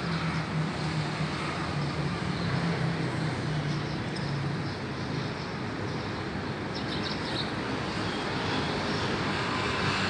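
Steady engine noise, a low hum over a broad rush, with the hum fading out about halfway through; a few brief high chirps come about two-thirds of the way in.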